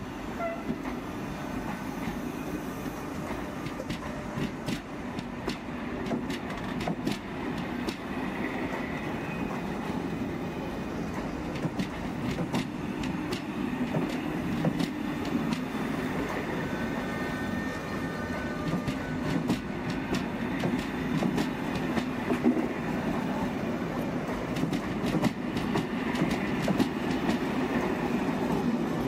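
A train moving along the station tracks: a steady rumble with wheel clicks over rail joints and points, the clicks growing denser and a little louder toward the end. Faint thin wheel squeals come now and then.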